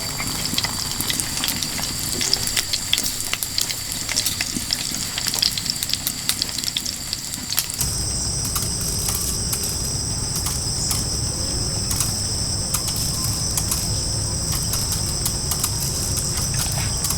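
Food sizzling and crackling in a hot pan, over a steady high shrilling of insects. About halfway through the sound changes: the crackle thins, a low rumble comes up and the insect tone shifts.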